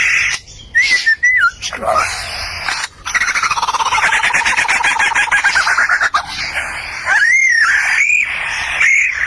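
Bird calls: whistled notes that rise and fall, a rapid trill lasting about three seconds, then three arching whistles near the end.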